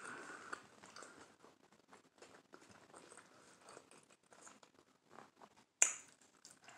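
A person chewing avocado toast on wheat bread close to the microphone: soft, irregular wet mouth clicks. About six seconds in comes one sharp, louder crunch as a fresh bite is taken.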